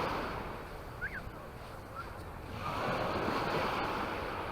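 Small sea waves breaking and washing up the beach: the surge fades after the first second and builds again about two and a half seconds in.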